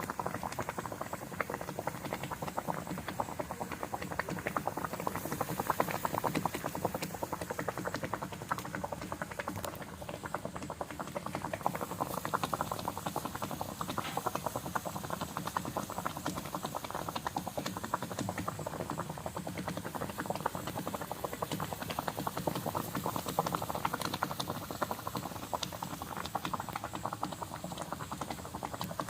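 Food cooking on a stove: a steady, dense crackle of bubbling and sizzling.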